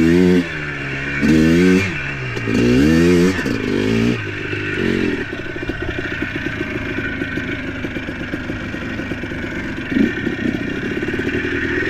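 ATV engine revving up and down in repeated bursts for about five seconds, then settling into a steady low putter, with a short louder surge near the end.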